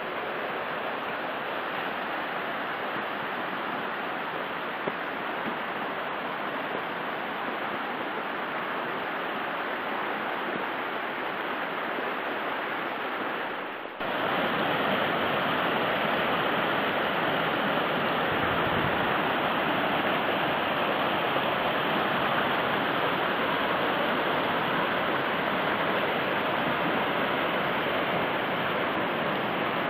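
Steady rushing of flowing water, like a mountain stream, with no distinct splashes. About halfway through it cuts abruptly to a louder, fuller rush.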